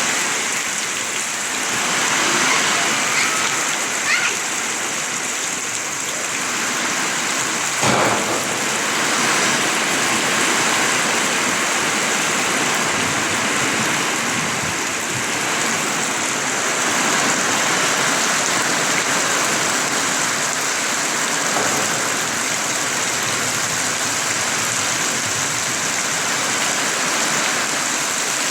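Heavy rain pouring steadily, with a couple of brief knocks about four and eight seconds in.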